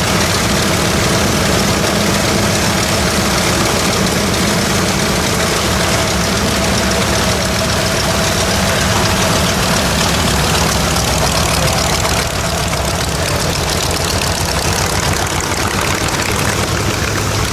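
Nakajima Sakae two-row radial engine of an A6M5 Zero fighter running steadily at low power, loud and even, easing slightly about twelve seconds in.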